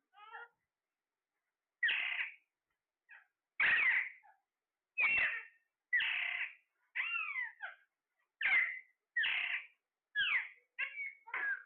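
A parrot giving a series of short, harsh squawking calls, about one a second, many of them sliding down in pitch.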